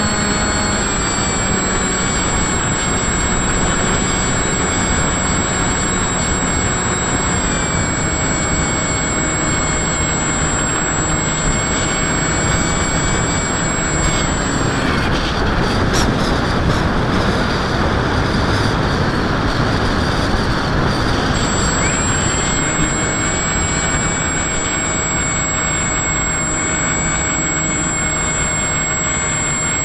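Electric motors and propellers of an FPV model aircraft, heard from its onboard camera: a steady whine over a rush of air, shifting in pitch with the throttle. The whine drops away for several seconds in the middle, and there is one sharp click about halfway through.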